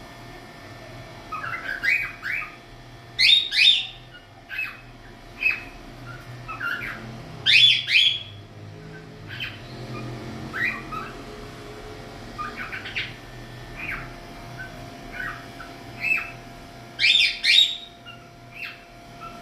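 Cockatiel chirping and squawking in short, irregular calls, with the loudest bursts of squawks about three seconds in, around eight seconds in and near the end.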